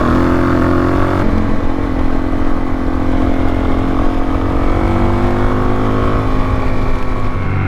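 Suzuki DR-Z400S single-cylinder four-stroke engine running under way on a ride. Its pitch drops about a second in, holds, then climbs again around five seconds in.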